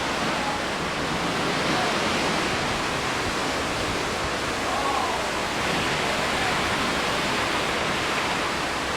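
Steady rushing noise of wind and open sea heard from a moving cruise ship, with no distinct events.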